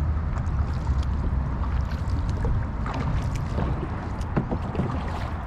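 Kayak being paddled: small splashes and drips from the paddle blades in the water, over a steady low rumble.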